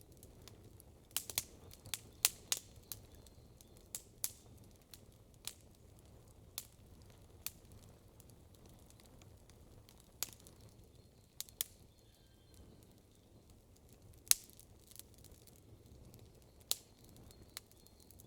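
Wood campfire crackling, with irregular sharp pops and snaps from the burning logs: a quick cluster in the first few seconds, then scattered single pops, the loudest about fourteen seconds in.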